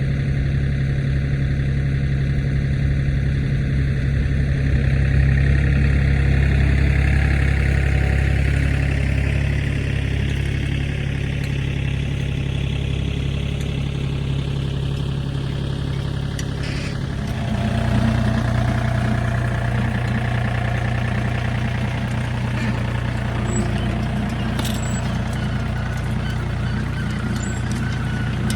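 Compact tractor's diesel engine running steadily, its engine note changing abruptly about two-thirds of the way through.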